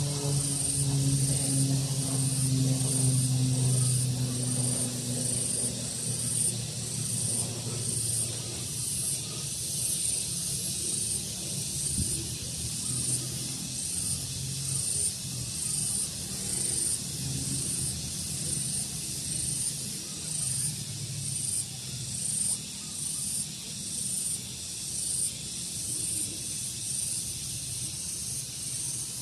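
Insects chirping in a steady, regular high-pitched pulse. A low drone sinks slightly in pitch and fades away over the first several seconds.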